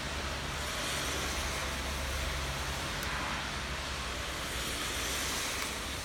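Steady rain falling, an even hiss with a low rumble underneath that eases slightly near the end.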